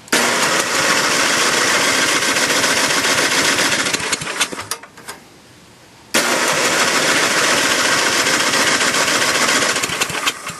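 Electric starter cranking a 10 horsepower John Deere snowblower engine in two bursts of about four seconds each, with a pause between them. The engine does not catch: it is not getting fuel.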